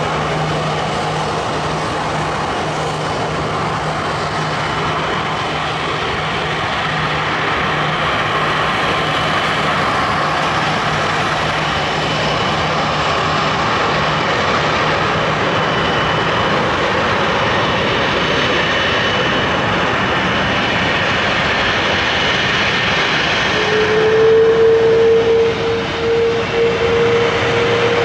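Jet engine noise from an Airbus A330-243's Rolls-Royce Trent 700 turbofans: a loud, steady rushing sound with faint whining tones. Near the end a strong steady whine comes in and the sound grows a little louder.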